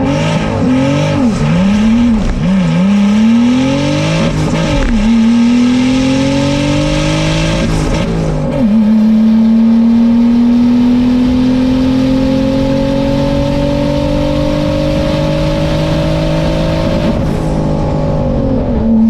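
A car engine accelerating hard on a drag strip pass. The revs climb and drop several times in quick succession, then pull up steadily, drop at a gear change about eight and a half seconds in, and climb slowly again before falling away as the throttle is lifted near the end.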